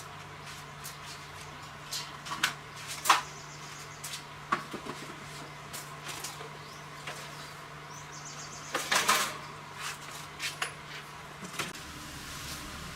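Irregular clicks, taps and knocks of hard parts and tools being handled, with a louder clatter about nine seconds in, over a steady low hum that stops near the end.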